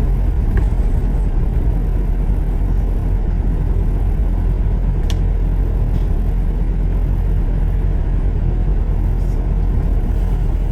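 Steady low rumble of a moving road vehicle's engine and tyres, with one short click about five seconds in.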